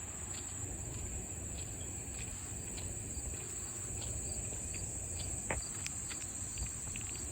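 Insects chirring in a steady, high, unbroken drone, over a faint low rumble with a few light clicks.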